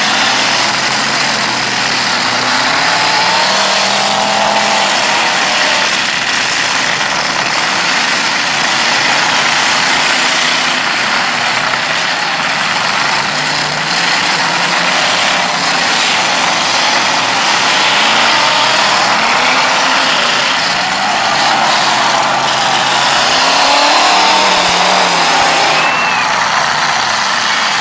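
Several demolition derby cars' engines running and revving at once, rising and falling in pitch, with a few sharp knocks of collisions.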